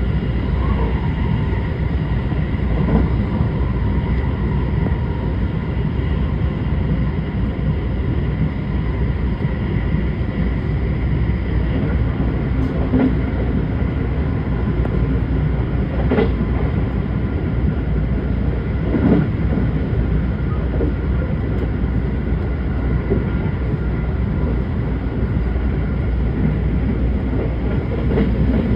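Steady low mechanical rumble with faint steady whining tones above it and a few brief knocks.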